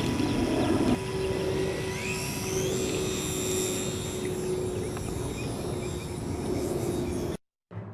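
Electric motor and propeller of a Hobbyzone Super Cub RC plane in flight, a steady whine with a higher whine that rises in pitch about two seconds in. A louder rushing noise fills the first second, and the sound cuts off abruptly near the end.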